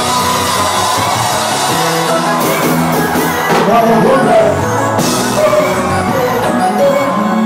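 Live kompa band music played loud, with voices singing and shouting over it.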